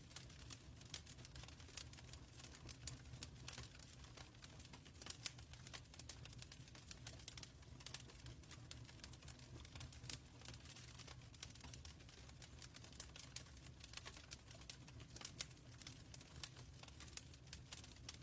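Fire in a fireplace crackling faintly, with irregular small pops and ticks over a low steady rumble.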